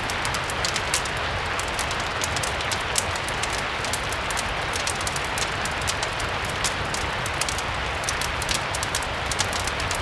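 Steady rain blended with a crackling fireplace: an even, dense rain hiss with many small, sharp crackles scattered irregularly over it.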